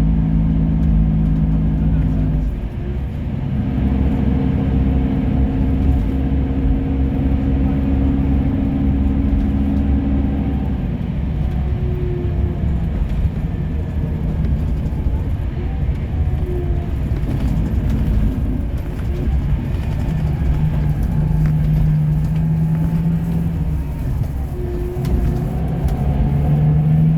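Bus diesel engine running with a steady low drone. Its pitch shifts about two and a half seconds in and again about eleven seconds in.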